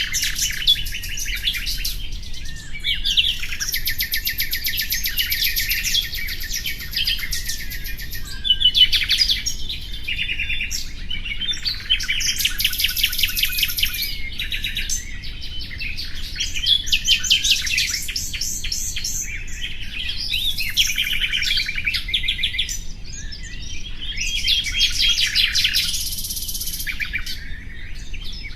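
Common nightingale singing: a string of phrases a few seconds long, each built of rapid repeated notes and trills, with short pauses between them.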